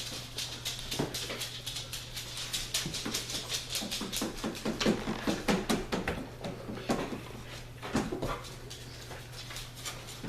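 Young puppies whimpering and squeaking, most busily about halfway through, over many quick scratchy clicks of small bodies moving about, with a steady low electrical hum.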